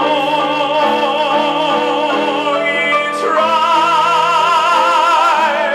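Male singer holding a long note with wide vibrato over the accompaniment of a song, then moving up to a higher held note about three seconds in.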